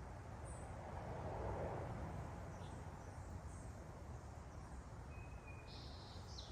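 Small wild birds at backyard feeders giving short, high chirps now and then, the strongest near the end. Underneath is a steady low background hum that swells briefly about a second in.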